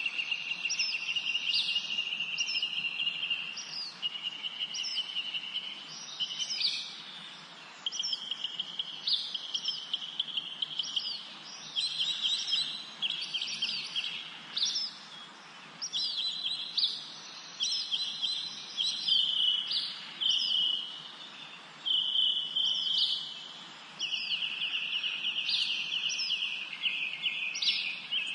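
Several songbirds singing in a spring forest: repeated short high chirps with a long buzzing trill underneath that comes and goes in stretches of a few seconds, over a faint steady hiss.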